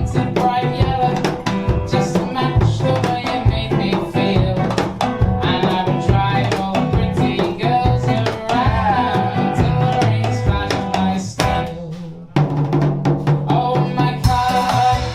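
Instrumental band music: a drum kit keeps a steady beat under a bass line and melody. The band cuts out briefly about twelve seconds in, then comes back in.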